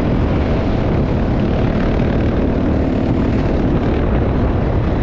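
Motocross bike engine running steadily.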